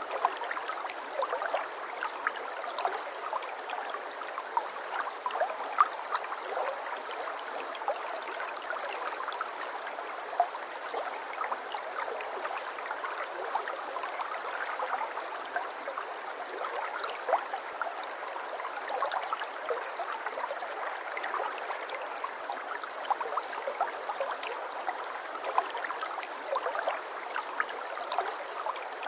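Shallow brook babbling steadily over stones, a continuous gurgle with many small splashes and drips.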